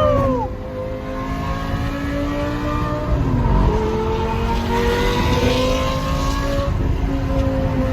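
Lamborghini Gallardo Superleggera's V10 with aftermarket exhaust, heard from inside the car while driving under light acceleration. The engine note falls at the start, rises slowly, drops with an upshift about three seconds in, then climbs again.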